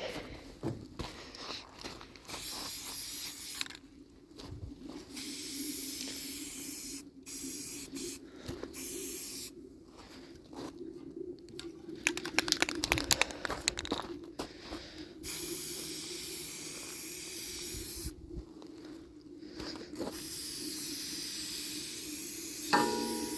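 Aerosol spray paint can hissing in repeated bursts of one to three seconds, with short pauses between them, as metal is sprayed. A run of rapid clicks comes about twelve seconds in.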